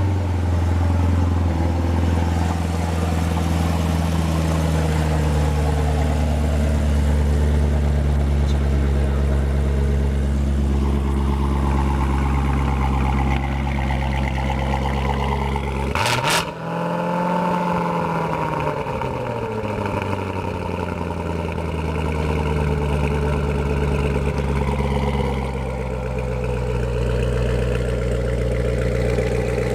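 Car engine running steadily, with a short sharp break about 16 seconds in followed by a rise and fall in engine pitch.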